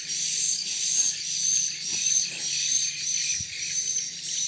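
Swiftlets chirping: a dense, high-pitched chatter that pulses about twice a second, over a low steady hum.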